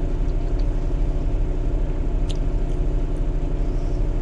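Steady low rumble of an idling diesel semi-truck engine, with a short click a little past two seconds in.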